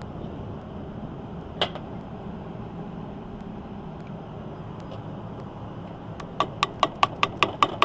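A single metal click, then a quick run of about ten sharp, ringing metal taps near the end, as a tool works on the fan's motor pulley to shift it on its shaft. A steady low rumble sits under it.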